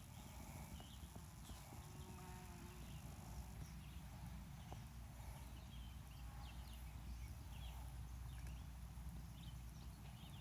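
Faint outdoor ambience: a steady low rumble with many short, scattered high chirps or plinks.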